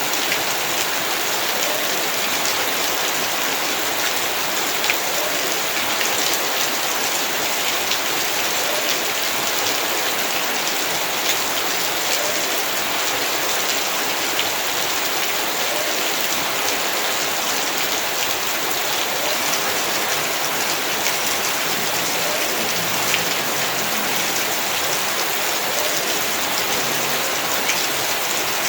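Heavy rain falling steadily on surfaces, a constant hiss with scattered sharper drop ticks.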